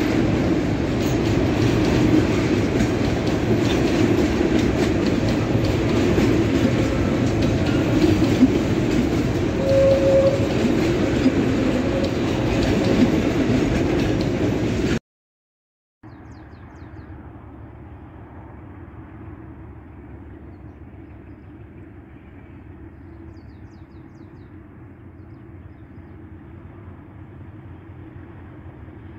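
Empty hopper wagons of a freight train rolling past at close range with a steady rumble and rattle. It cuts off suddenly about halfway, and a much quieter steady outdoor background follows.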